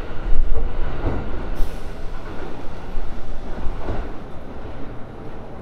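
Kintetsu electric train moving through the station: a loud low rumble of wheels on rail with a few short knocks, easing off near the end.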